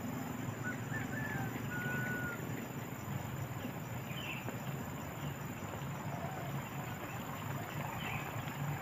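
Outdoor ambience under a steady rushing noise, with a few short high bird whistles and chirps scattered through it.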